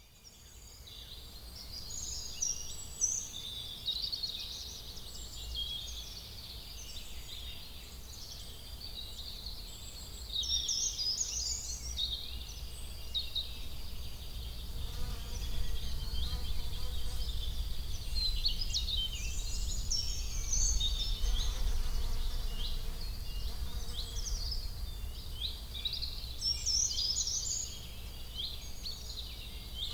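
Outdoor ambience of small birds chirping and singing continuously, over a steady low rumble.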